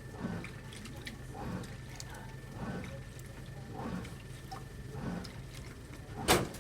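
AQUA 5 kg coin-operated washing machine agitating its wash: water sloshing in a regular rhythm about once every 1.2 seconds over a steady motor hum. A single sharp clack near the end is the loudest sound.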